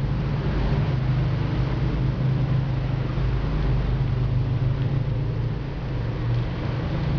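Steady low mechanical hum with an even rushing noise over it, from a running motor.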